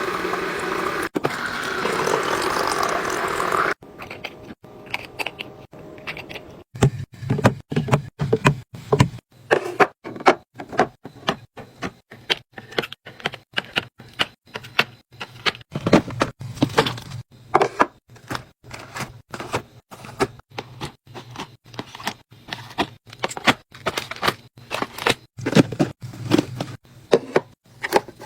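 Containers being handled and set down, an irregular run of quick clicks, knocks and light thuds. Before that, a steady rushing noise that stops abruptly a few seconds in.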